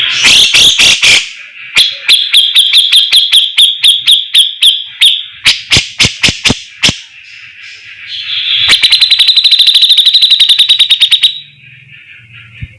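Cucak jenggot (grey-cheeked bulbul) song: a run of loud, rapid, high chirping notes and sharp chips, then a fast, even trill of about two and a half seconds that stops abruptly.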